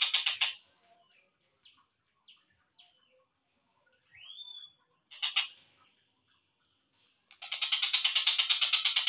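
Slowed-down recording of a tengkek buto kingfisher calling. A fast rattling trill cuts off about half a second in, followed by a few short notes, a rising whistle around four seconds and a short burst just after five seconds. A long, rapid rattling trill starts a little past seven seconds.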